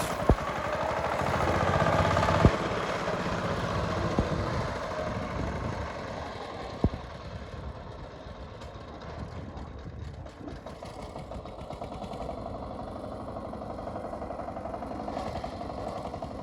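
Power tiller's diesel engine running with an even, rapid firing beat, loudest about two seconds in and then settling to a steadier, quieter run. A few sharp clicks stand out over it.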